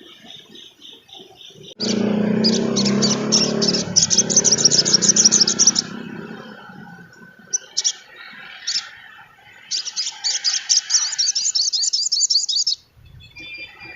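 Sogon trotol (a spiderhunter) singing in rapid, high chattering trills: a long burst, a few separate notes, then a second burst. A low rumble sits under the first burst.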